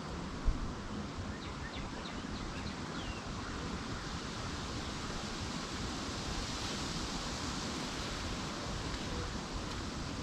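Steady outdoor wind-like noise. A single sharp knock comes about half a second in, and a small bird gives a short run of high chirps a second or two later.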